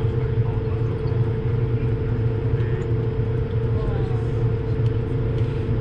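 Steady cabin noise of an Airbus A220-300 in flight: the drone of its Pratt & Whitney geared turbofan engines and rushing air, with a steady hum running through it.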